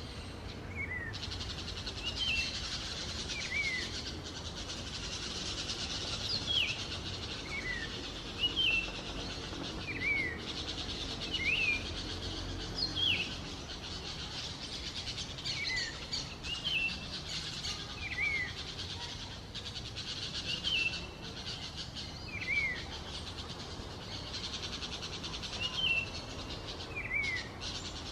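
A wild songbird, the cak wilis abu, repeating a short sharp call note every second or so, each note a quick high slur. A steady high buzz runs behind it and drops out briefly a few times.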